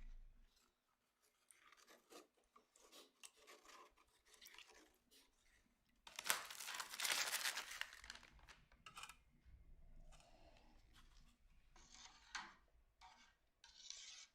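Scraping and rubbing on metal parts by hand, with a louder two-second stretch of scrubbing starting about six seconds in, then lighter scrapes and clicks.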